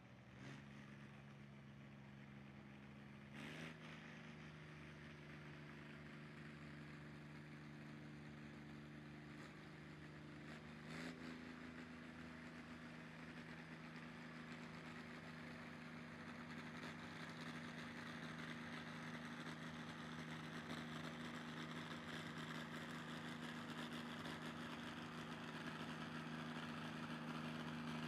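Engine of a pulling vehicle running steadily, its pitch stepping up sharply three times, with a short click at each step, and growing gradually louder.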